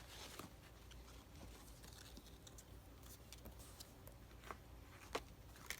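Near silence: room tone with a low hum and a few faint clicks, mostly in the last two seconds.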